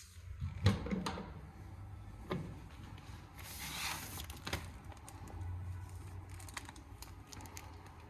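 Several light clicks and knocks, with a brief scraping rustle about three and a half seconds in, over a steady low hum.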